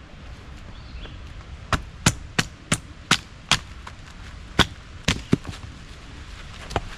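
Estwing Sportsman hatchet chopping into wood to split it into quarters: about ten sharp chops, a quick run of six then a few more spaced out.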